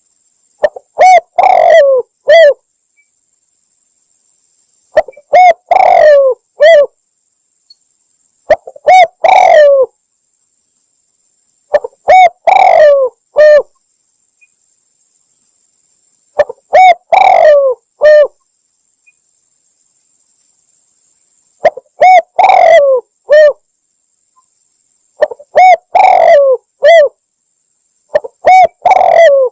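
Spotted dove (tekukur) cooing: eight loud phrases of three or four low, falling coos, each phrase a few seconds apart. It is a recorded lure call, played to draw doves in for hunting.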